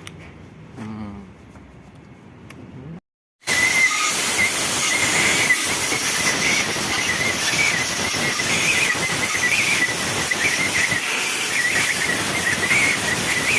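After a quiet opening, a loud steady hiss starts abruptly about three and a half seconds in and runs on, with a wavering high whistle riding on it.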